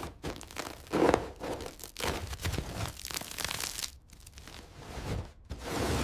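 Irregular crinkling, tearing and scraping noises from hand work on the car, in uneven strokes with short pauses between them.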